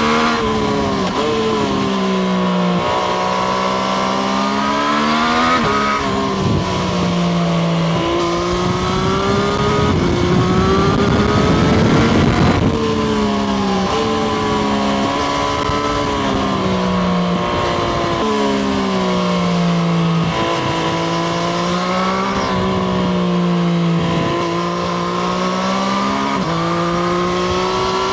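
Triumph Street Triple RS 765 cc three-cylinder engine heard from onboard while riding, its revs climbing and dropping again and again with the throttle, with sharp drops every few seconds. A rushing noise swells for a few seconds around the middle.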